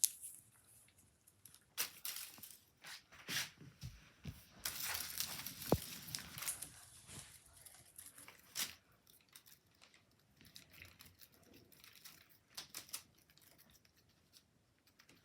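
A cat playing, making irregular rustling and crinkling noises with scattered sharp taps, busiest in the first half and dying down to a few faint ticks later.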